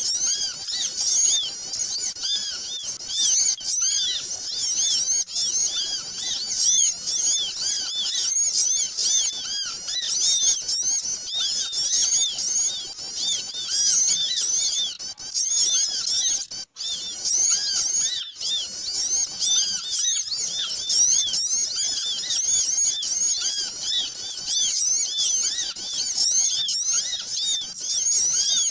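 A noisy, crowded chorus of many small birds chirping and twittering at once, without pause: a lure-call recording for attracting small birds.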